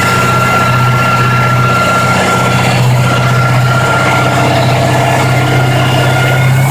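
Supercharged engine of a 1936 International pickup hot rod (Weiand 177 blower, headers) running steadily, a low, even engine note with a thin steady high whine over it.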